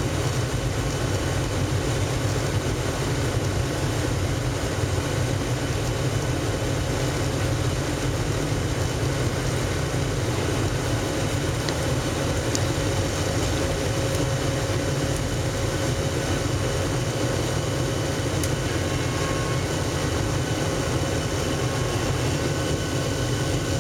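Steady cabin noise of a Boeing 737-700 heard from inside the passenger cabin: the CFM56 jet engines running at a constant setting, with air-conditioning hiss and a low rumble, and a few faint steady tones. The level holds even, with no spool-up.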